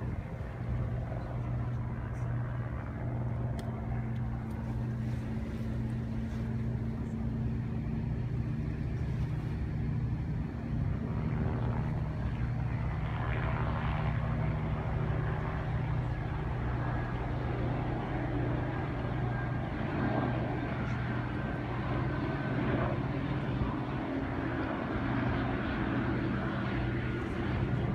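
A steady low engine drone, with more mixed background noise joining about halfway through.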